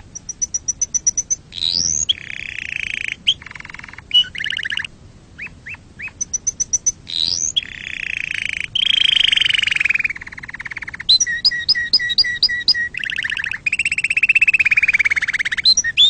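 Canary singing a long, varied song: fast rolling trills, runs of rapid repeated high notes and quick rising whistled glides, one phrase after another.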